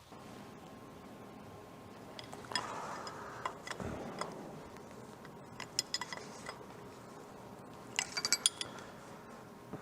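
Light metallic clinks and clicks of steel washers and a nut on an all-thread rod being fitted up as a homemade differential spreader tool, in scattered groups of a few quick taps.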